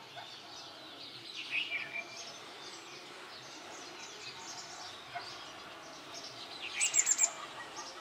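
Birds chirping and calling, with scattered short notes throughout, a small cluster of chirps about a second and a half in, and a quick run of about five high, sharp notes about seven seconds in that is the loudest sound.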